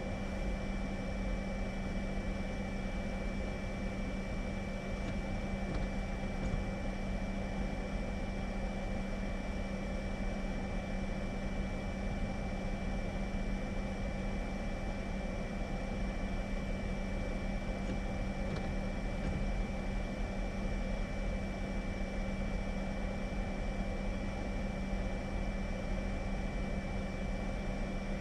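Steady vehicle noise, engine and road drone with a constant low hum and a faint high whine, unchanging throughout.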